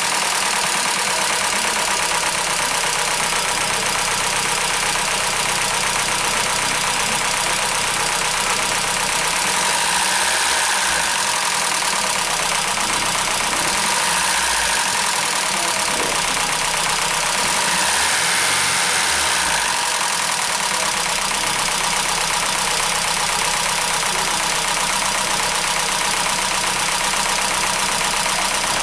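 Car engine idling steadily with a knocking noise, as if something were striking inside the engine, the fault this engine is being diagnosed for.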